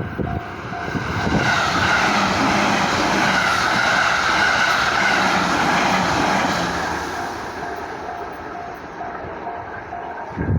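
A train passing over a Japanese level crossing, its wheel and running noise swelling to a loud rush about 2 to 6 seconds in and then fading. The crossing's warning bell dings about twice a second throughout and is plain again as the train noise dies away.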